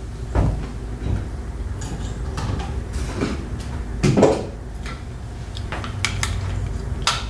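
Die-cast toy models being handled and set down on a hard surface: scattered clinks and knocks of metal and plastic, several of them a second or so apart.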